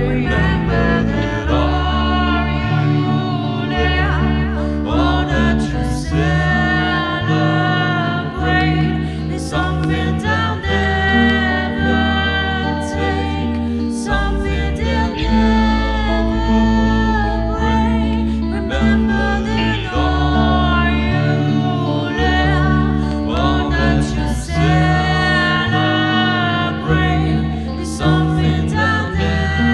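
Song with sung vocals over a full backing track with a steady bass line.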